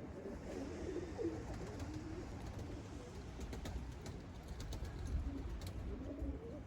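Domestic pigeons cooing, several overlapping coos, mostly in the first two seconds and again near the end, over a low rumble.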